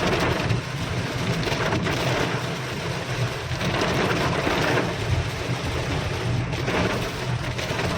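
Heavy monsoon rain pouring down, a dense steady hiss with a low rumble underneath.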